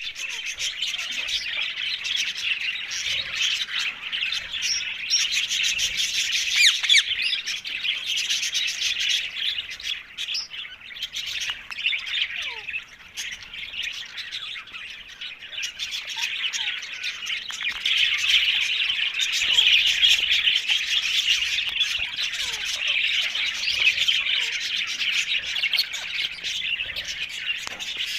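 Rose-ringed (Indian ringneck) parakeet chatter: a continuous stream of rapid, high-pitched chirps and squawks. It grows louder a quarter of the way in and again past the middle, with a brief lull near the middle.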